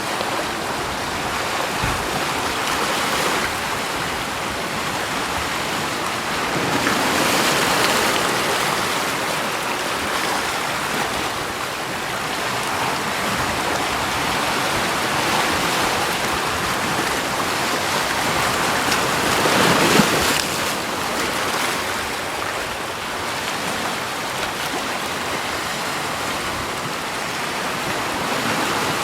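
Continuous rushing water, a steady hiss that swells louder twice, about a quarter of the way in and again about two-thirds of the way through.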